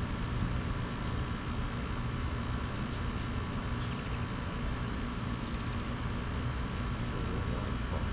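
Hummingbirds giving short, high squeaky chirps, scattered irregularly, over a steady low rumble of background noise.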